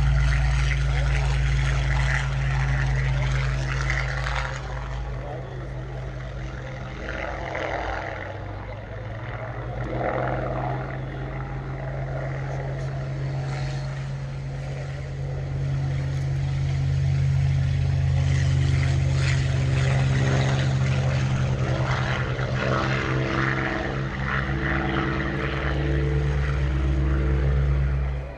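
Aircraft engines droning steadily: a continuous low hum with several steady tones and a rushing noise above it.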